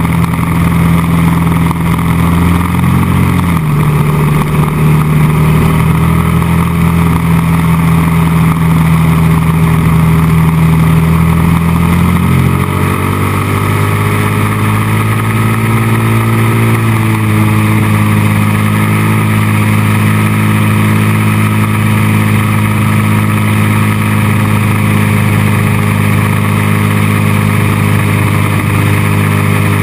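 Honda XR600R's air-cooled single-cylinder four-stroke engine running at speed under the rider, heard close from a headlight-mounted camera. Its pitch drops sharply twice, about three and a half and twelve and a half seconds in, as the rider shifts up, climbs a little after the second shift, then holds steady for the rest of the time.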